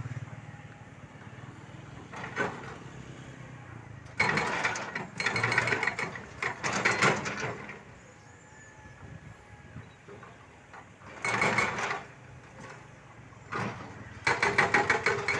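Excavator-mounted hydraulic breaker hammering into the ground in several short bursts of rapid blows, with quieter gaps of the machine running between bursts.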